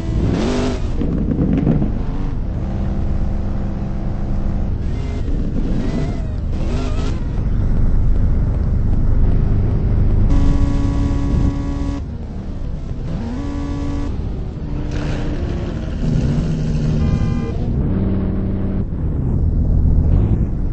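Car engines revving and driving past over a continuous low rumble, with the pitch rising and falling several times and a few revs held for a second or two.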